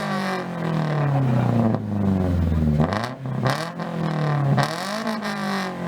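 A car engine being revved repeatedly through its exhaust, each rev climbing quickly in pitch and then sinking back slowly, about four times in a row.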